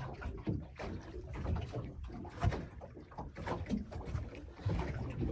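Small boat at rest on the water: low rumble with irregular knocks and rustling handling sounds.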